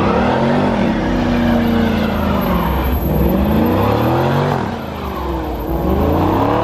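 Car engine revving hard and repeatedly, its pitch climbing and dropping about three times.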